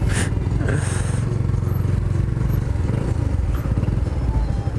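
Yamaha R125's single-cylinder four-stroke engine running steadily under way, with a short rush of hiss near the start and again about a second in.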